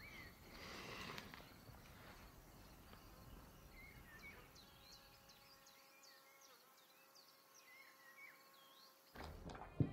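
Faint outdoor ambience with small birds chirping quietly now and then and a faint steady drone underneath.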